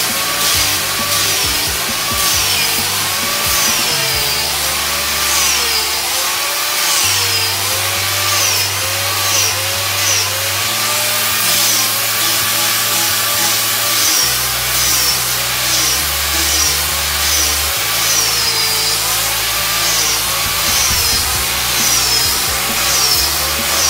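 Handheld power tool grinding away the willow of a cricket bat, its motor whine dipping and rising about once a second as it is pressed into the wood and eased off on each pass. Background music with a bass line plays under it.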